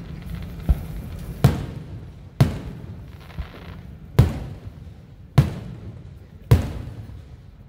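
Aerial fireworks shells bursting overhead: a string of about six sharp booms in under seven seconds, each trailing off in an echo, the loudest about four seconds in.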